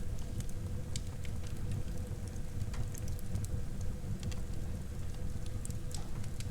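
Wood fire burning in a fireplace: irregular sharp crackles and pops over a steady low rumble of burning.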